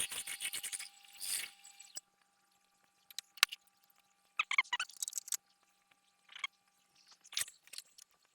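Workshop handling sounds while a wooden jig is screwed together: a dense, rapidly repeating noise for about two seconds, then scattered clicks and knocks of parts and tools being handled.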